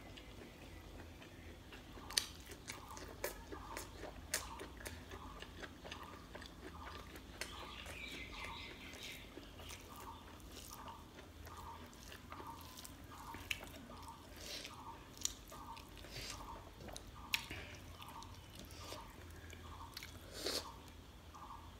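Close-up wet chewing and mouth smacking of a person eating rice and chicken gravy, with sharp mouth clicks and a steady chewing rhythm.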